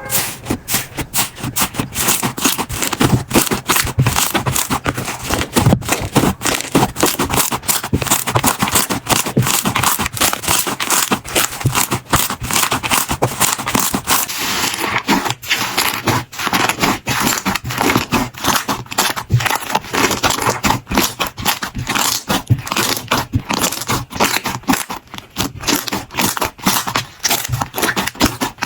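Slime being squished and worked by hand, giving a dense, fast run of crackling pops and clicks.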